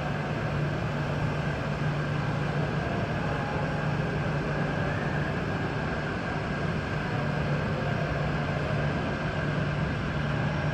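A steady mechanical drone: a constant low hum with a fainter high whine above it, unchanging throughout.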